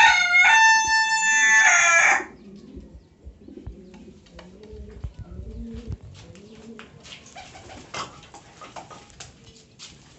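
A rooster crows loudly, its call ending about two seconds in. Then domestic pigeons coo with low, repeated rising-and-falling calls, over scattered small clicks and rustles.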